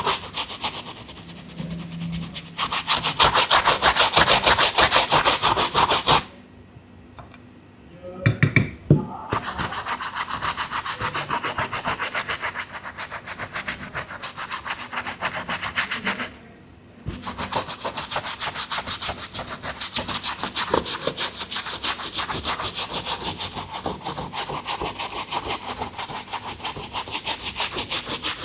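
A cleaning brush scrubbing a sneaker in rapid back-and-forth strokes. The scrubbing pauses for about two seconds some six seconds in, and again briefly about sixteen seconds in.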